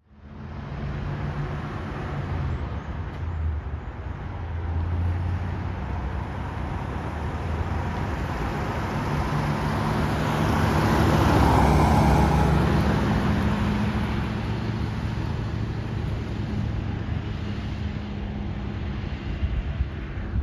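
1956 Chevrolet Bel Air's 265 cubic-inch V8 running as the car drives by, growing louder to a peak about halfway through and then fading somewhat.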